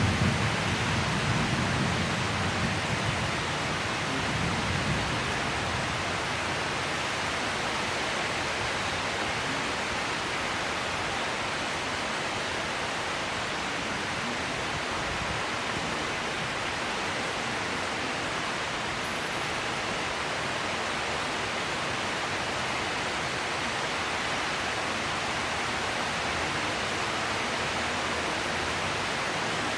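Heavy rain pouring down steadily in a tropical thunderstorm. A low thunder rumble fades away over the first few seconds.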